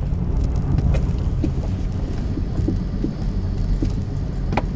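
Steady low rumble inside a car's cabin, with a few faint clicks and light jingles on top.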